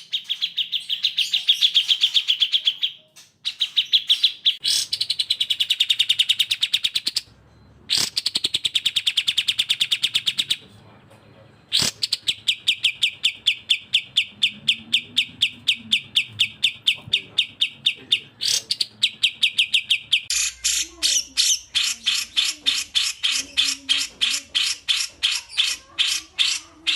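Recorded songbird trills from a cucak jenggot and kapas tembak masteran track: fast, rattling trills repeated in runs of a few seconds with short breaks between them. From about two-thirds of the way in, a different trill takes over that reaches higher in pitch.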